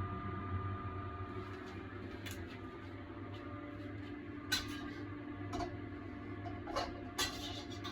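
Steady mechanical hum of a kitchen extractor fan, with a few light clinks of utensils on cookware, the sharpest a little past the middle and near the end.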